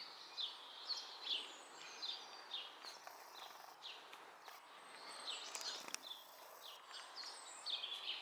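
Small birds calling: a busy stream of short, high chirps, many sliding down in pitch, over a faint steady hiss.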